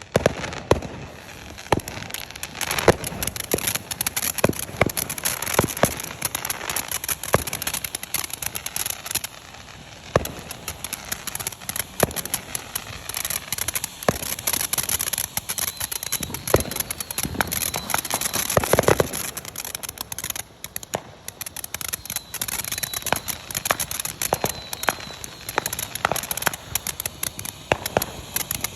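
TNT Mad Trolls ground fountain firework burning: a steady hiss of spraying sparks with dense, irregular crackling pops throughout.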